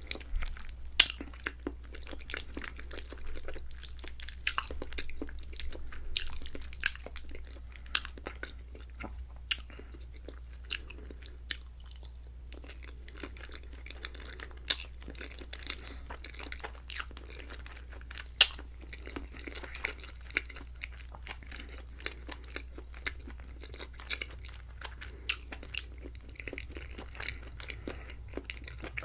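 Close-miked chewing of creamy fettuccine alfredo with chicken and shrimp: wet mouth sounds broken by many sharp clicks, the loudest about a second in.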